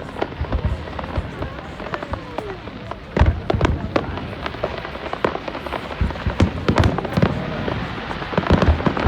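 Fireworks display: a rapid, irregular series of bangs and crackling bursts, growing heavier and louder about three seconds in.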